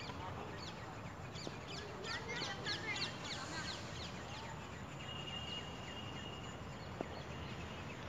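Small birds chirping: a flurry of quick, high chirps about two seconds in, then a thin steady whistle for a second or so past the middle, over a steady low outdoor background noise.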